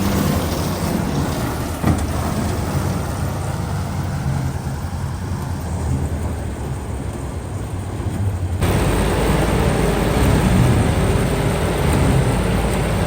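Diesel engines of a tractor and harvester running steadily with a low rumble; the sound changes abruptly about eight and a half seconds in.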